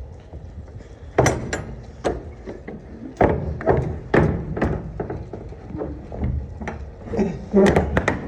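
Semi-trailer rear doors being shut and latched: a series of sharp metal clanks and thuds, the loudest about a second in, at three and four seconds, and several close together near the end.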